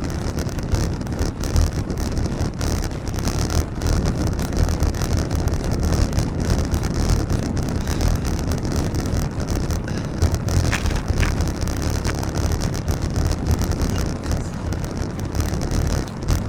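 Wind rushing and buffeting over the microphone of a camera on a moving bicycle, with road noise underneath.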